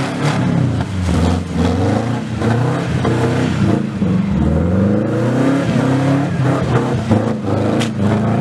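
Subaru Legacy Outback's EJ22 flat-four, on unequal-length headers with the axle-back exhaust removed, revving up and falling back again and again under throttle while the car is driven in the snow. One sharp crack near the end.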